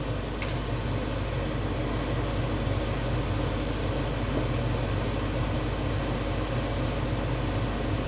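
A steady mechanical hum with an even hiss, and a single click about half a second in.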